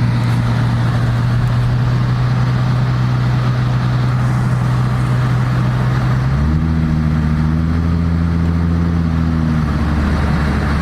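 Ford Mustang's engine running steadily with a low hum. About six seconds in the note shifts to a lower, fuller hum with several overtones, then settles back near the end.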